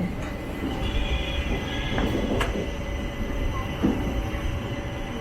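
Passenger train running on the rails: a steady low rumble, broken by a few sharp metallic clanks, about two seconds in, again just after, and near four seconds.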